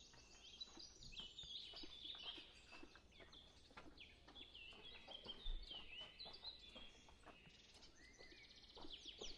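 Faint songbird chirping: many short, quick chirps and twitters, busier near the end.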